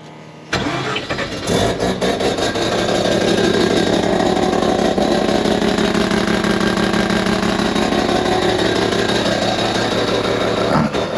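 Mazda 13B rotary engine cranked with no throttle, catching after about a second and settling into a steady idle. Near the end it dips and briefly revs up. It is running without a radiator.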